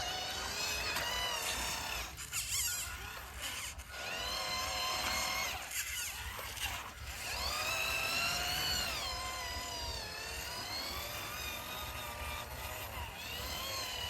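Small electric motors and gearboxes of RC toy tractors whining, the pitch rising and falling as the load changes, dropping a couple of times and climbing highest past the middle.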